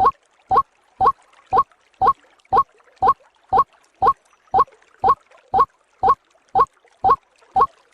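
White-breasted waterhen (ruak-ruak) calls played as a bird-trapper's lure recording: short rising calls repeated evenly, about two a second.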